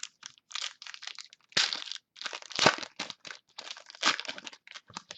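A trading card pack wrapper being crinkled and torn open, with the cards handled: a run of irregular crackles and rustles, loudest about one and a half to three seconds in.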